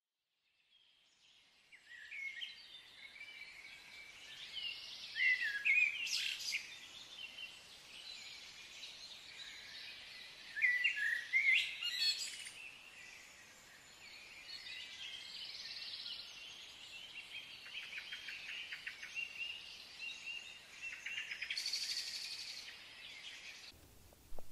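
Small songbirds singing and chirping, with louder bursts of quick chirps about five seconds in and again around eleven seconds in, and a rapid trill near the end. The first couple of seconds are near silent.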